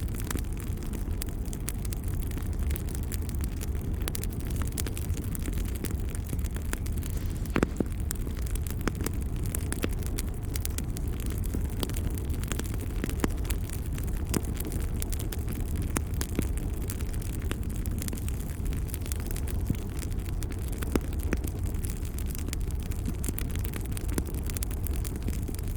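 Wood fire crackling, with scattered sharp pops over a steady low rush from the flames; one louder pop comes about eight seconds in.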